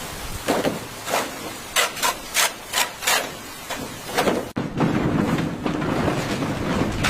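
A series of short scraping or rubbing strokes, roughly two a second, that cuts off suddenly about four and a half seconds in and gives way to a steady rushing noise.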